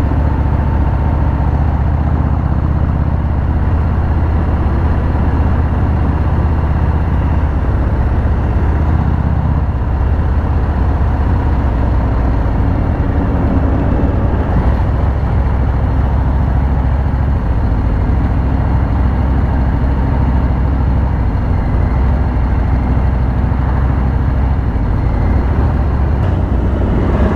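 Harley-Davidson V-twin motorcycle engine running steadily while riding on the road, with a constant low exhaust note and rushing noise over it.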